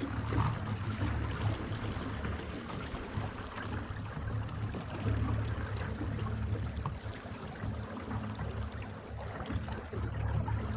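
Pedal boat moving under a Minn Kota 35-pound-thrust electric trolling motor: water splashing and trickling along the hull, with a steady low rumble underneath.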